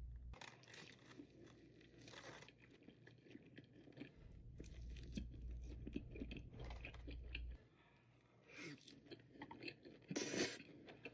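A person eating close to the microphone: faint chewing and crunching with small mouth clicks, and a louder crunchy bite about ten seconds in.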